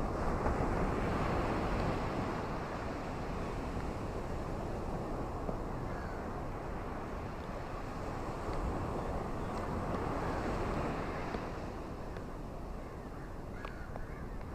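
Ocean waves washing onto a beach in a steady rush, swelling twice, at the start and again about two-thirds of the way through.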